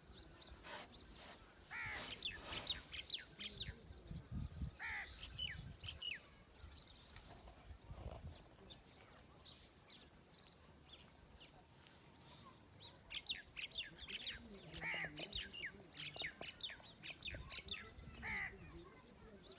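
Birds chirping in quick runs of short, high calls that come in bursts, with quieter gaps between.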